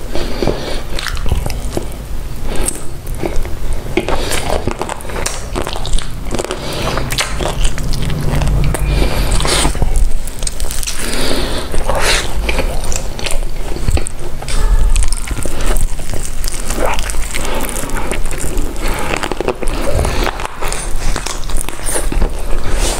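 Close-miked eating: repeated crunchy bites and chewing, with crackling between bites.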